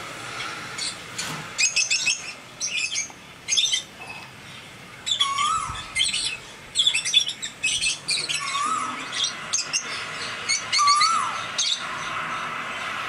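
Birds chirping and calling, with quick high chirps in clusters and one short whistled note, rising then dropping, repeated three times a few seconds apart.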